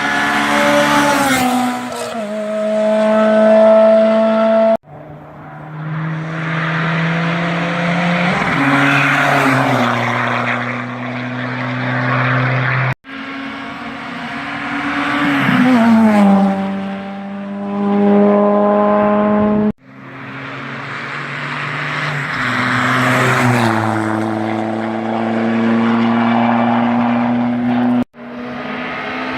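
Race cars at full throttle passing one at a time, engines rising in pitch, dropping at each gear change and falling away as they go by. About five separate passes, each cut off suddenly after the one before.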